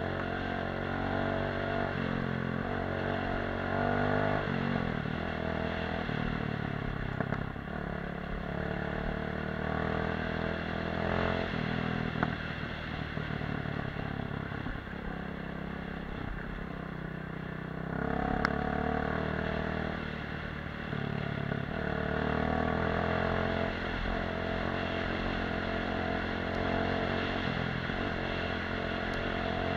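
Off-road motorcycle engine running under way, its pitch rising and falling as the rider works the throttle and shifts gears, with an occasional sharp knock.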